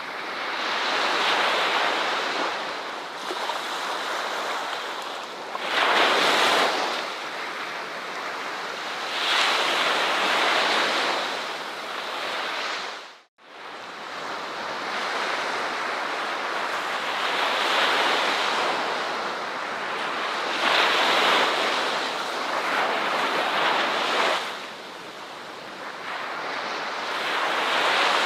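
Ocean waves breaking on a shore, the surf swelling and fading every few seconds. About halfway through, the sound cuts out for an instant and then comes back.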